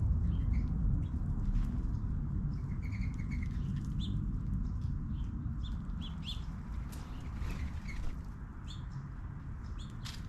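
Small birds chirping in short, scattered notes, several at a time, over a steady low rumble.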